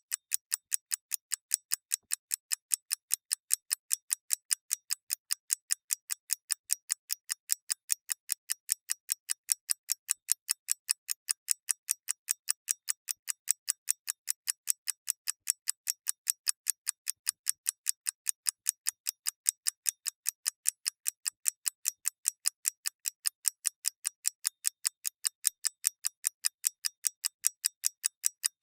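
Mechanical clock ticking in a fast, even rhythm of crisp, bright ticks.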